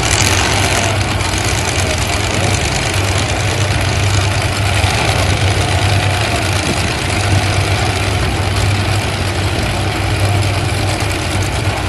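Several demolition derby trucks' engines running at idle together, a steady deep drone with no letup.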